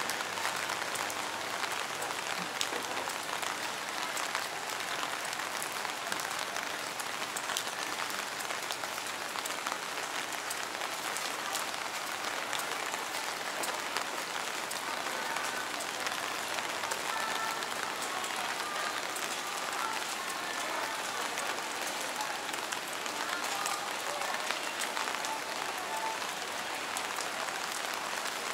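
Steady rain falling on wet paving and surfaces all around: an even hiss made of many fine drop ticks.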